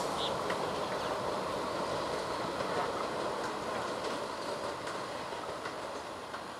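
Express train's passenger coaches running away on the rails, a steady rolling rumble that fades as the last coach recedes.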